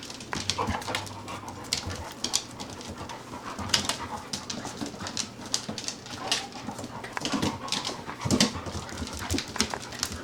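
Labrador puppies playing, with brief whimpers and yips among frequent small clicks and scuffles.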